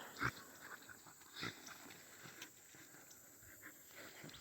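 Dogs play-fighting, heard faintly: scattered scuffling, with two short sounds from the dogs, one just after the start and one about a second and a half in.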